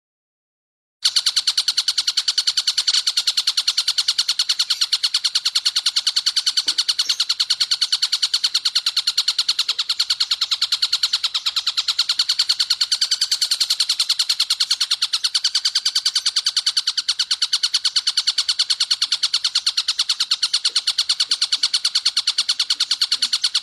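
Tengkek buto kingfisher giving a long, fast run of sharp, even 'kek' notes, starting about a second in and cutting off suddenly at the end.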